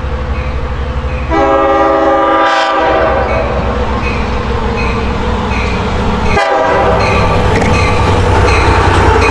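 LIRR DM30AC dual-mode locomotive running on diesel with a steady low drone, sounding its multi-note horn for about a second and a half, then again briefly about six and a half seconds in.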